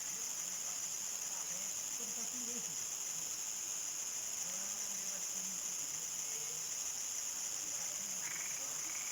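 Crickets singing in a steady evening chorus, a continuous high-pitched trill with no pauses. Faint distant voices murmur underneath.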